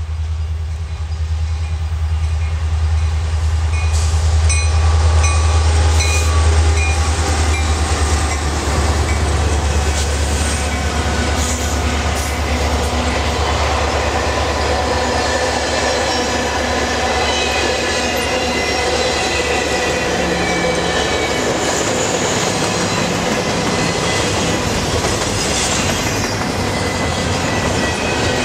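A diesel-hauled freight train passing close by. The locomotives' engine drone comes first, loudest in the first several seconds, then fades as the passenger cars and double-stack container well cars roll past with steady wheel noise, clicking over the rail joints and a high wheel squeal.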